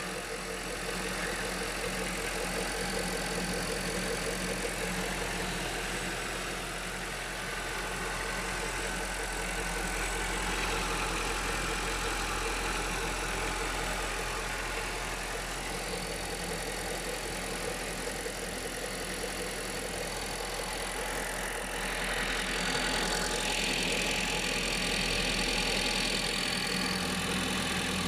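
Car engine idling steadily with a persistent noise from the accessory belt drive that goes on even though the tensioner and idler pulley bearings have been greased. A thin, high steady whine comes in about two-thirds of the way through.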